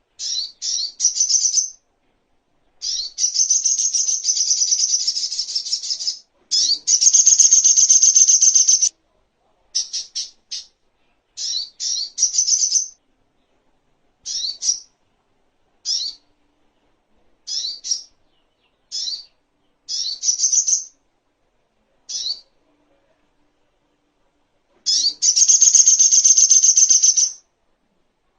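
Sogok ontong (songon, little spiderhunter) calling: clusters of short, sharp, high chirps with silent gaps between them. Three longer runs of rapid chattering notes come a few seconds in, just after that, and again near the end.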